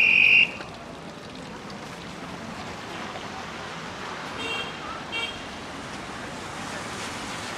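A short, loud, high-pitched vehicle horn toot at the very start, then two brief fainter toots about halfway through, over a steady hiss of street traffic noise.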